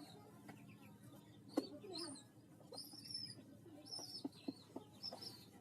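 Pigeon squabs giving short, high, squeaky cheeps, about one a second, the begging calls of hungry chicks at feeding. A single sharp tap sounds about a second and a half in.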